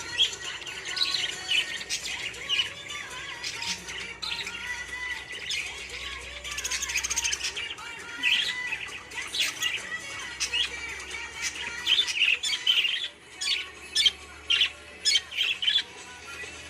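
Budgie chirping and squawking in a busy run of short high calls. In the last few seconds these become sharp separate squawks, about two a second.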